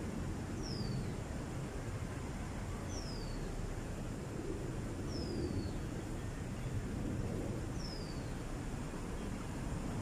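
A bird calling a single high, falling whistled note four times, about every two and a half seconds, over a steady low rumble.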